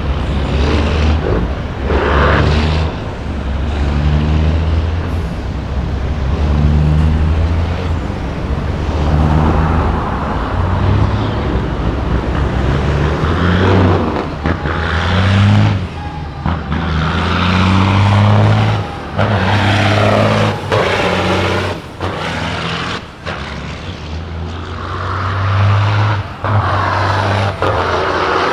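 Semi-truck diesel engines pulling away, revving up and dropping in pitch over and over as they shift through the gears, with air brake hiss.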